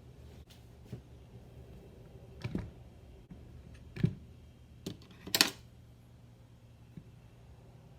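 A handful of scattered clicks and knocks, like small objects being handled and set down, over a low steady hum; the sharpest knock comes about four seconds in and a brief rattle about five and a half seconds in.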